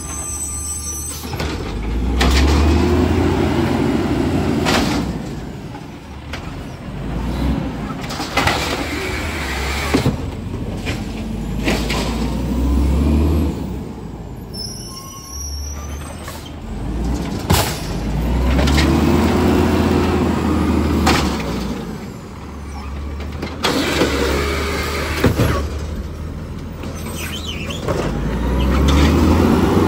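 Garbage truck engine running and revving up and back down in repeated cycles roughly every eight or nine seconds, with several brief sharp bangs in between.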